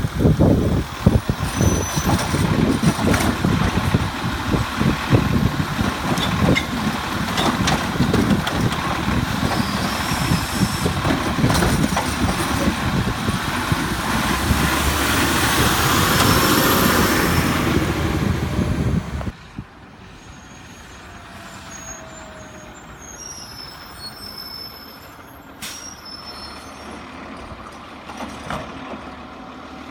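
Garbage truck with a Rapid Rail automated side-loader running loud for about nineteen seconds, its engine noise swelling near the end of that stretch, then cutting off abruptly to a much quieter background with faint scattered high chirps.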